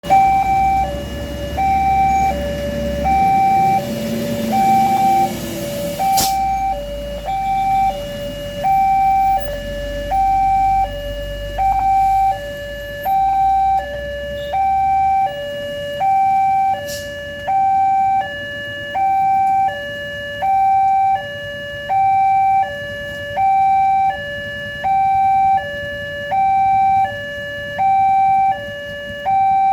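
Railway level-crossing warning alarm sounding: an electronic two-tone signal alternating steadily between a higher and a lower tone, about one high-low cycle every second and a half, warning that a train is approaching. A low rumble runs beneath it for roughly the first half.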